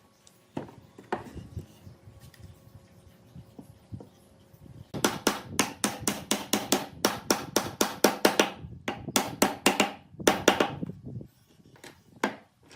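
Rapid hammer blows on wood, about five a second, in two runs with a short break between them, then a single blow near the end. A couple of lighter knocks come first.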